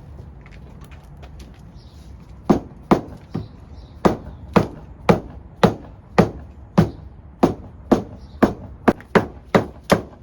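A hammer striking over and over while trailer edge trim is fastened down, about sixteen sharp blows starting a couple of seconds in, about two a second and quickening near the end.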